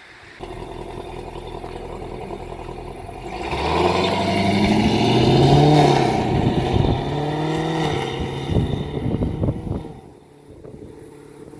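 2019 Camaro SS's 6.2-litre LT1 V8 with the catalytic converters removed and the factory active exhaust, running steadily and then put under heavy throttle about three seconds in: the engine note climbs, drops and climbs again several times as the automatic upshifts, then falls away near the end as the throttle is lifted.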